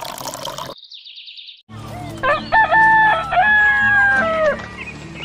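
A rooster crows a long cock-a-doodle-doo of several held notes ending in a falling note, over background music. It comes just after the trailing end of water being poured from a small metal pail.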